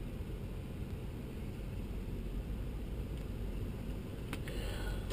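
Steady low rumble of a stopped 4x4's engine idling, heard from inside the cab, with a few sharp clicks about four to five seconds in.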